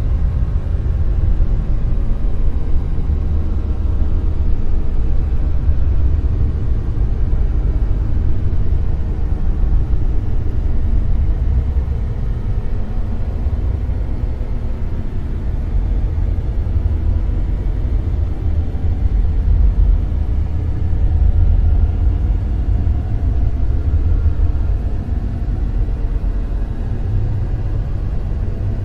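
Dark noise: a steady, deep rumbling hiss weighted heavily toward the bass, with slow, gentle swells in loudness.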